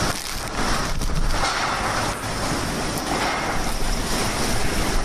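Handheld hair dryer running, a steady loud rush of blown air and motor.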